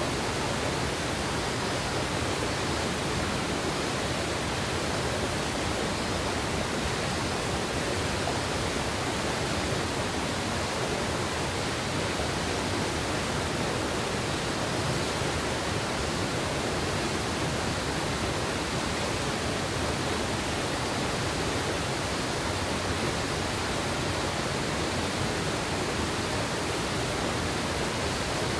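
River water in a mountain gorge rushing steadily, an even, unbroken hiss.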